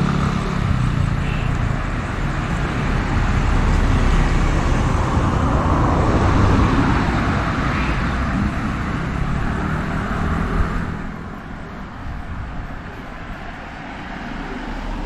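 Street traffic: motor vehicles passing close by, with a low engine drone at the start. The noise falls away about eleven seconds in, leaving quieter street sound.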